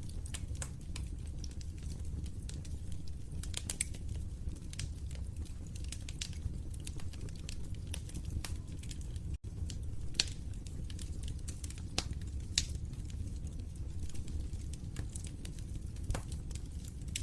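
Wood fire crackling: irregular sharp pops and snaps over a steady low rumble of the flames. The sound cuts out for an instant about nine seconds in.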